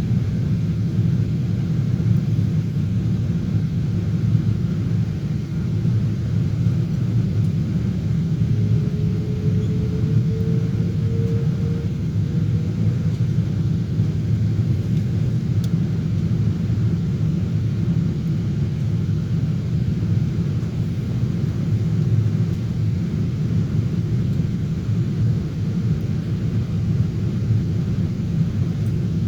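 Steady low rumble of a Boeing 777-300 airliner in flight, its engines and airflow, with a faint whine rising slightly for a few seconds about eight seconds in.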